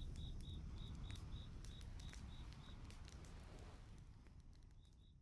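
Campfire crackling with sharp pops, with crickets chirping about three times a second; the chirping pauses in the middle and comes back near the end while the whole sound fades out.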